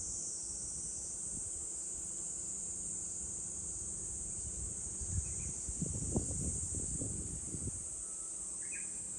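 Summer cicadas droning steadily in a high, unbroken chorus. Low rumbling thumps come between about six and eight seconds in, and two faint short chirps sound in the middle and near the end.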